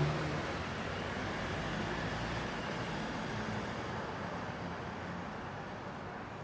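City street traffic ambience: a steady wash of passing cars, with a low engine rumble near the start that fades as a vehicle moves away, the overall sound slowly easing off.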